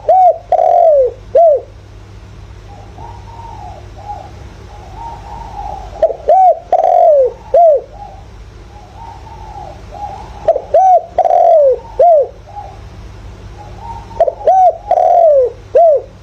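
Spotted dove cooing: a loud phrase of several short falling coos, given four times, every four to six seconds, with softer cooing in between. It is the 'giọng thổ' call that keepers play as a lure to rouse other doves.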